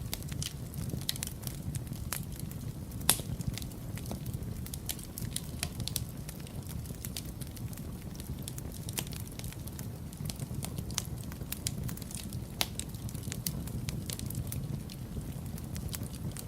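Wood fire burning in a fireplace: a steady low rumble of flames with frequent irregular crackles and snaps, one louder pop about three seconds in.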